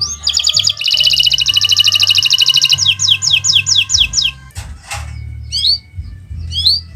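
Domestic canary (Kenari Nusantara) singing: a rapid, high rolling trill that slows after about three seconds into separate sweeping notes, followed by a few short rising chirps.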